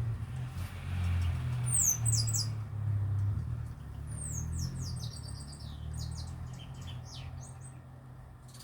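Small birds chirping in quick, high, downward-sliding notes, in a burst about two seconds in and a busier run from about four seconds, over a low steady drone.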